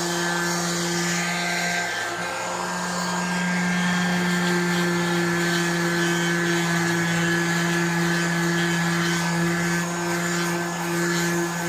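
Handheld electric power tool running steadily with a constant motor hum, its rotating brush or abrasive scrubbing rust off the metal go-kart seat; the tone dips briefly about two seconds in.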